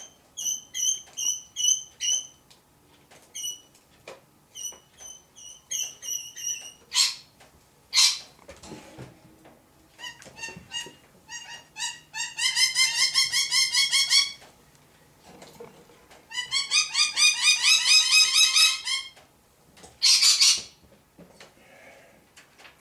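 A bird chirping: a run of short repeated high chirps, then two long rapid trills of about two seconds each, with a few harsh squawks between them.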